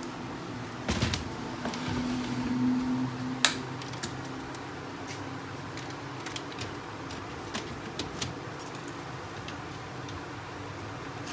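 Knocks and clicks of a laser printer's fuser unit being handled and pushed into the printer frame, with a sharp knock about three and a half seconds in and lighter ticks after it, over a steady background hum.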